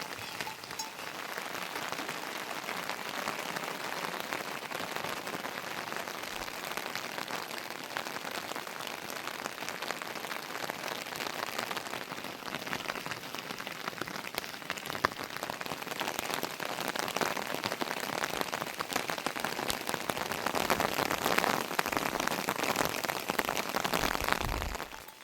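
Steady rain falling, a dense hiss of fine drops that grows heavier near the end before cutting off.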